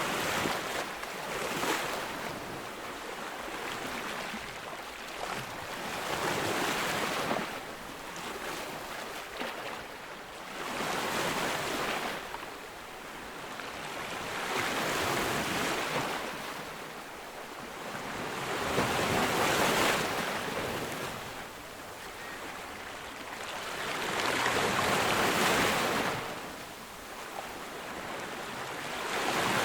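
Ocean waves breaking on a beach, the surf swelling and fading again about every four to five seconds.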